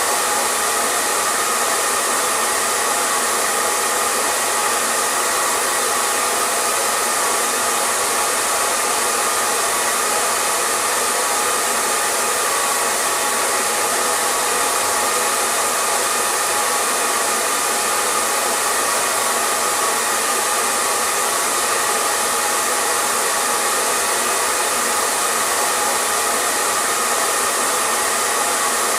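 Hair dryer running steadily: an even, unchanging rushing hiss with a steady motor hum in it.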